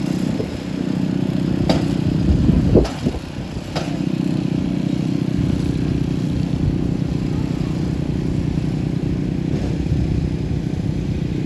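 An engine running steadily at an even speed, with three sharp knocks between about two and four seconds in.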